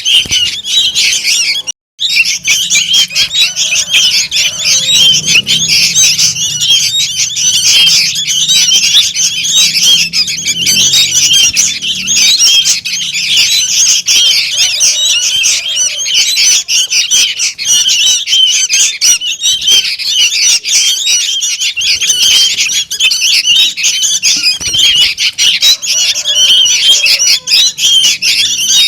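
Sooty-headed bulbul (kutilang) chicks calling noisily, a dense, unbroken chatter of high squeaky calls. A lure call for attracting bulbuls. There is a brief break about two seconds in.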